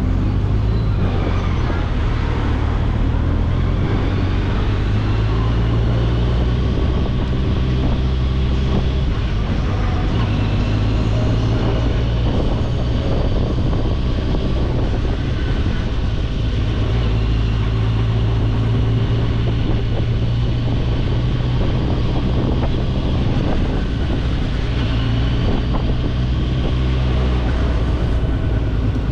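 Kawasaki Ninja 1000SX's inline-four engine running while the bike is ridden. Its low note holds for stretches and shifts a few times as speed changes, over a steady rush of wind noise.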